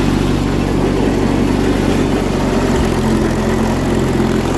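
John Deere 317 garden tractor engine running steadily.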